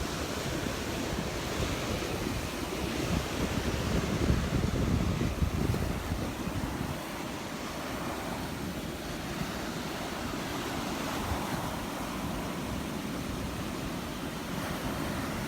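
Gulf of Mexico surf washing onto the beach, with wind buffeting the microphone in gusts that are heaviest a few seconds in.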